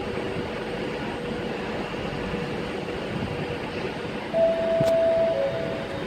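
Steady hum and rumble of an electric multiple-unit train at a station platform. About four seconds in, a louder steady tone sounds for about a second and a half.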